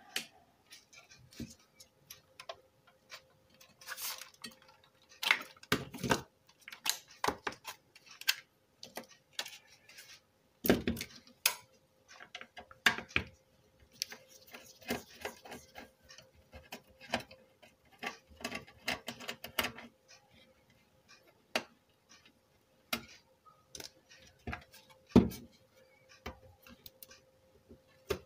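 Car stereo head unit being taken apart by hand: irregular clicks, knocks and small metallic clinks of tools and screws against its metal casing, with a faint steady hum underneath.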